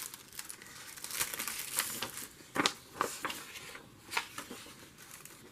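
Sheets of stationery paper and their packaging being handled, rustling and crinkling with irregular sharp crackles.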